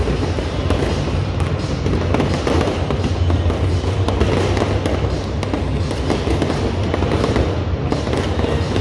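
Aerial fireworks going off continuously, a dense run of crackling pops and bangs, over music playing with a steady bass.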